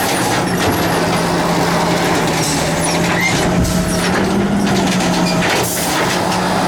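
Garbage truck running close by: a steady engine drone with mechanical clatter from the truck.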